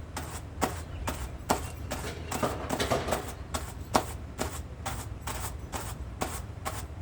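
Hand carders brushing soft dog undercoat fur, their wire teeth scratching through it in brisk repeated strokes, about two or three a second.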